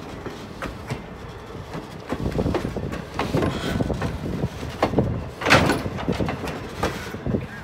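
A train rolling past, its wheels clicking and knocking irregularly over the rails, growing louder about two seconds in, with one loud burst about five and a half seconds in.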